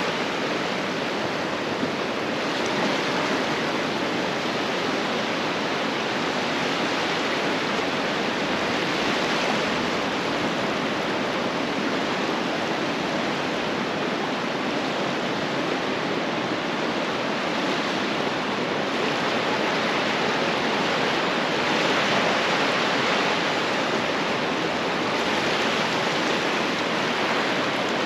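Ocean surf breaking and washing up the beach: a steady rush of water noise that swells gently now and then.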